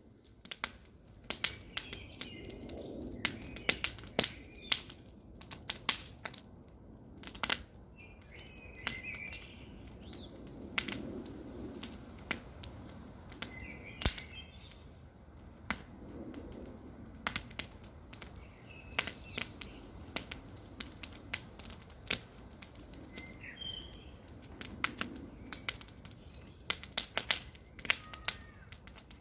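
Campfire burning wood, crackling with many irregular sharp pops and snaps over a soft steady rush. Short bird chirps come through in the background every few seconds.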